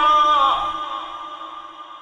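A man's voice in melodic Quran recitation, ending a phrase about half a second in on a held note that dies away in a long echo.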